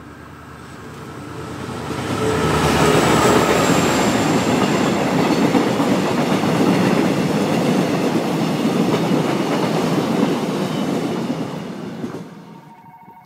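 Korail Mugunghwa-ho passenger train passing close by at speed, its wheels running on the rails. The sound builds as it approaches, stays loud for about ten seconds while the cars go past, and falls away quickly as the last car clears.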